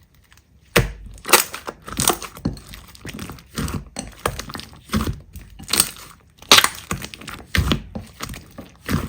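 Slime being squeezed and pressed by hand, giving a quick series of crackling squishes, about one or two a second, starting about a second in.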